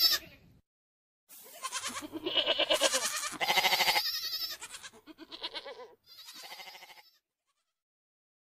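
Goats bleating: a run of about four wavering bleats, the first two loudest and the later ones fainter.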